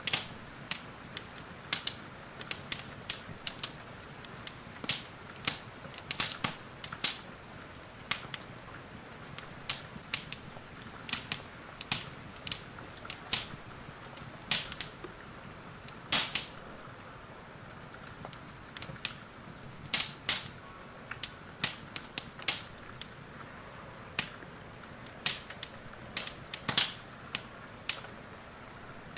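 Wood fire in a fireplace crackling, with irregular sharp pops, a few every second and some much louder than the rest, over a soft steady hiss of rain.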